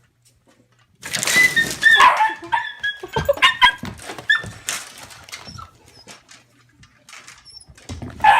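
Animal calls: a burst of short, pitched calls with clicks and knocks begins about a second in, thins out after about six seconds, and starts again near the end.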